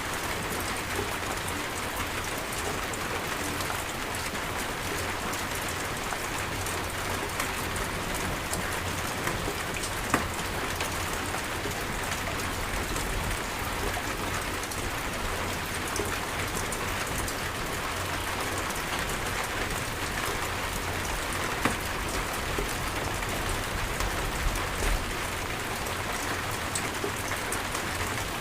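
Steady heavy rain falling, a dense even hiss of drops with occasional louder single drops striking close by, about ten seconds in and again a little past twenty seconds.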